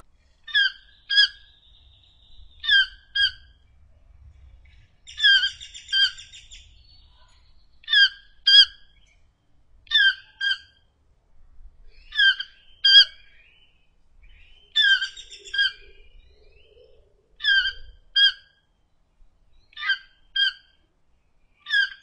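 A toucan calling: short, sharp notes in pairs about half a second apart, repeated about every two seconds, nine or ten pairs in all.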